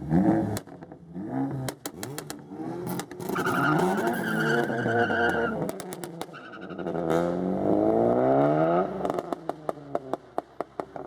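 Car engines revving hard, the pitch dropping about two seconds in and climbing steeply from about seven seconds in as a car accelerates, with a high tire squeal around four to five seconds in. A quick run of sharp pops follows near the end.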